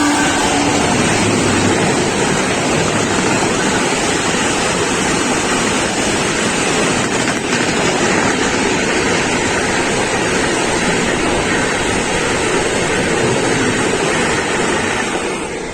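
A train passing at speed: a loud, steady rush of wheel and air noise with wind on the microphone. The tail of its horn drops in pitch and fades out about a second in.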